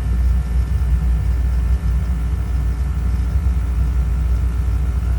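Oil burner on a boiler running: a steady low rumble from its blower and flame.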